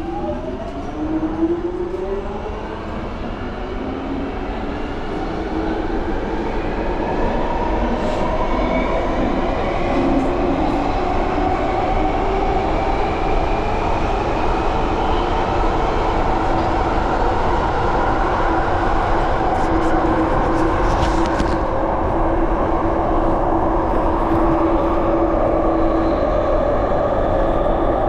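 Underground train accelerating away from a station, heard from inside the carriage: the traction motors give a whine of several tones that rises steadily in pitch and loudness for about fifteen seconds, then holds steady over the rumble of the wheels on the track. A short run of clicks comes about twenty seconds in.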